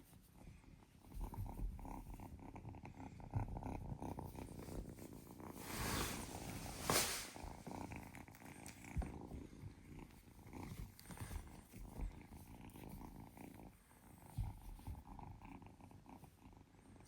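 A kitten purring steadily, with a brief rustle about six to seven seconds in.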